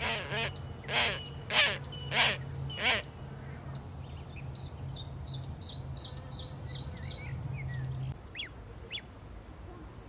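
Birds calling: five loud, harsh calls about every half-second in the first three seconds, then a fast run of about eight short, high chirps from a smaller bird, and two quick downward-sliding chirps near the end.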